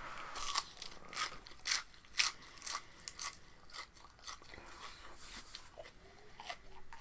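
Crisp crunching of someone chewing raw vegetables, about two crunches a second, fading to softer chewing after the first few seconds.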